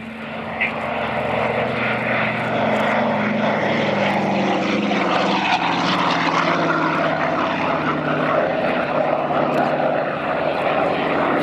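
The twin Pratt & Whitney R-1830 Twin Wasp radial engines of a Douglas Dakota running in a flypast. The sound grows louder over the first couple of seconds, then holds steady, and the engine note drops slightly in pitch as the aircraft passes.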